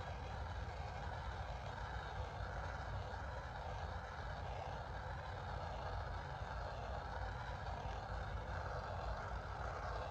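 Steady rushing, blowing noise of a heat tool being played over a plastic seat-hinge cover to try to restore its faded finish.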